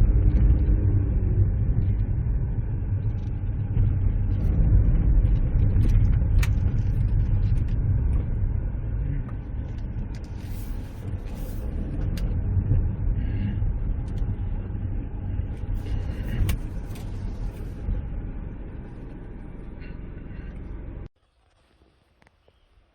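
Car driving: a steady low rumble of engine and road noise with a few scattered clicks and knocks. It cuts off suddenly near the end.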